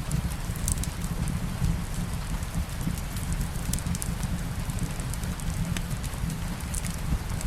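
Steady rain with a deep low rumble beneath it, and scattered small, sharp crackles from a fireplace fire.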